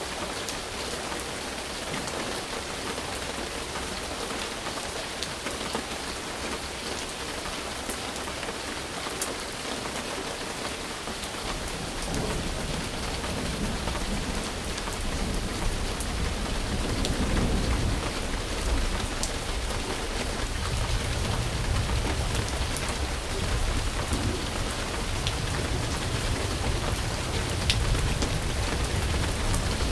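Steady rain falling, an even hiss with scattered drop ticks. About twelve seconds in, a low rumble of distant thunder joins and keeps on under the rain.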